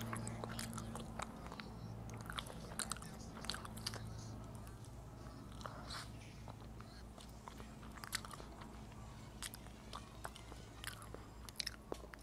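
Close-up eating sounds: irregular wet mouth clicks and chewing as a soft rice-paper summer roll is bitten and chewed, over a low steady hum.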